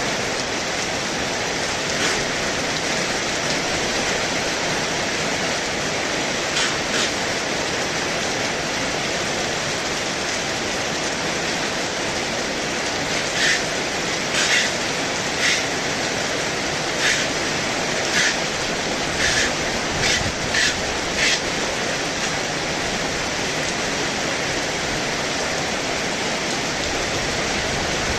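Heavy rain pouring steadily in a dense, even hiss. A scattering of short, sharper splashes stands out above it, most of them bunched together in the middle of the stretch.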